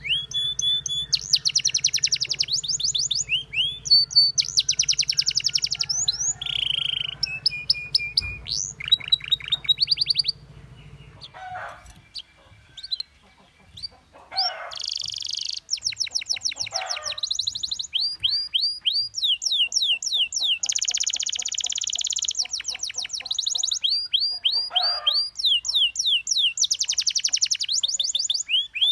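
Canary singing in fast trills, each a run of rapidly repeated high sweeping notes, with a quieter pause of a few seconds near the middle.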